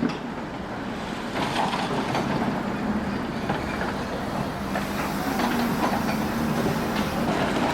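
Heavy demolition machinery running steadily, with irregular crunching and clattering of breaking masonry and debris.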